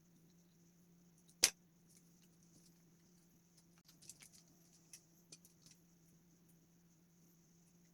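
A single sharp click about a second and a half in, then a scatter of faint clicks and taps, over a steady low electrical hum.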